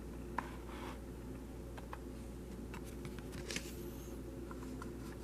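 Steady low hum with scattered light clicks and ticks; one brighter click comes about three and a half seconds in.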